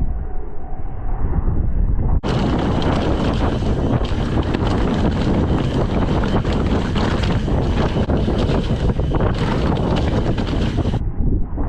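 Wind rushing over a chest-mounted action camera's microphone during a fast downhill mountain-bike run, with the tyres rolling and the bike rattling over the trail. The noise is muffled at first, turns abruptly brighter and hissier about two seconds in, and drops back to muffled near the end.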